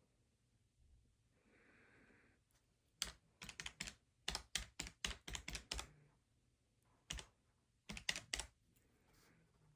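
Quick clicks of keys being pressed on a desk: about a dozen in a run from about three seconds in, then one, then a short burst of four near the end.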